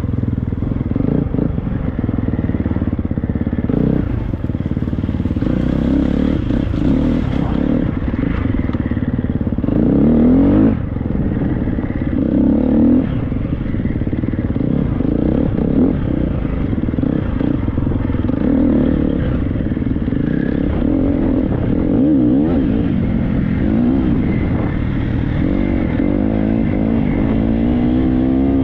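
Triumph 250 motocross bike's single-cylinder four-stroke engine revving up and down hard as it is ridden, with quick rising sweeps in pitch about ten seconds in and again near the end.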